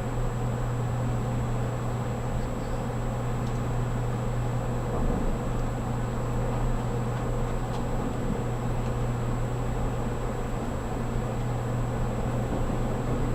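Steady running noise inside the cabin of a 783 series electric limited-express train: an even low rumble with a constant hum.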